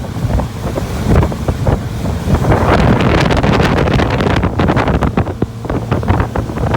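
Wind buffeting the microphone on a running motorboat, a loud, uneven rush with many short crackles over the boat's engine and hull on the water.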